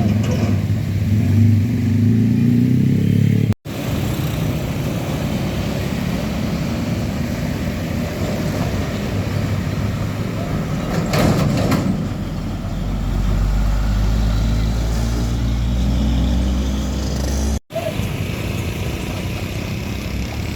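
Road traffic with heavy diesel trucks running and passing close by, a steady engine rumble with one vehicle swelling past in the middle. The sound drops out abruptly for an instant twice, once early and once near the end.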